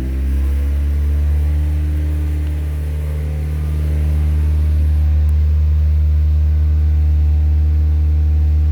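1999 Honda Civic's 1.6-litre four-cylinder engine running at a steady speed held above idle. Its pitch climbs a little at the start and then stays even.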